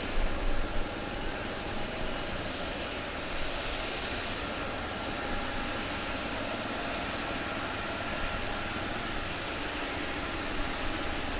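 Jet engines of a cargo airliner running steadily: a constant rush with a faint steady whine over it. Wind buffets the microphone in the first second.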